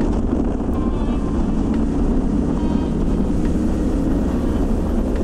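Harley-Davidson Pan America Special's Revolution Max 1250 V-twin engine running steadily under way at highway speed.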